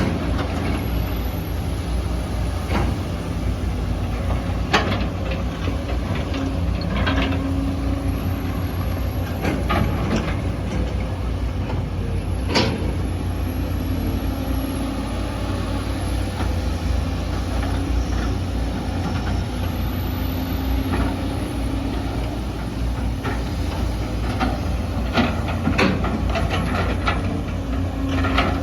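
Excavator's diesel engine running steadily under load, with scattered sharp knocks and clanks, several bunched together near the end. A faint high whine rises and falls above the engine.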